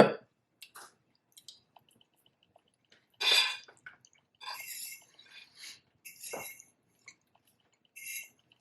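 Close-miked wet chewing and lip smacks of someone eating an omelette, in about five short separate bursts with quiet between, the loudest a little after three seconds in.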